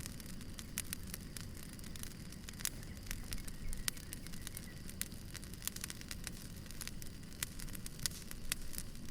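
Wood fire crackling: irregular sharp pops and snaps of burning logs over a low, steady rumble.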